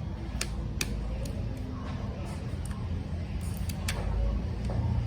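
A few sharp small clicks and taps, three in the first second and a half and two more a little before four seconds, over a steady low rumble like background traffic.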